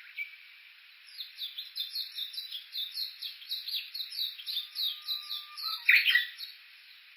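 Japanese bush warbler calling a fast run of repeated sharp falling notes, about four a second, for nearly five seconds. Near the end comes a long, steady low whistle, broken off by a short, loud flourish.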